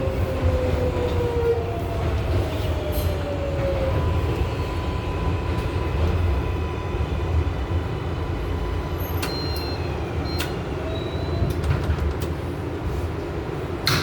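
Interior noise of an R188 subway car on the 7 line: a steady low rumble, with a faint falling motor whine in the first few seconds and a few sharp clicks about two-thirds of the way through.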